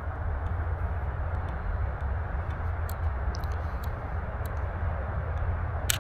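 Steady low rumble of wind buffeting the action camera's microphone, with a few small ticks and one sharper click near the end.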